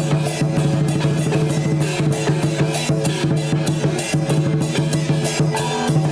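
Chinese dance percussion band playing: a big drum beaten in a fast, steady rhythm with gongs and cymbals crashing along.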